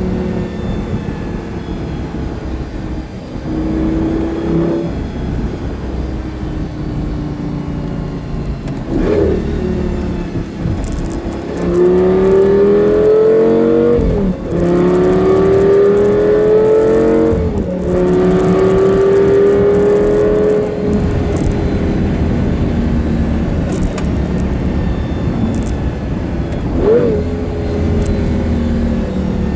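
Lamborghini Gallardo's V10 engine heard from inside the cabin while driving. In the middle its pitch climbs in three pulls, dropping back at each upshift, and short rev blips come about a third of the way in and again near the end. It is a freshly installed engine still being broken in.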